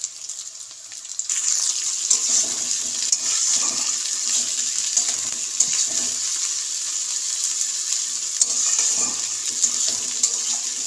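Sliced carrots and green beans sizzling in hot oil as they are stir-fried in a metal kadai, with a metal spatula scraping and clicking against the pan. The sizzle gets much louder about a second in and then stays steady.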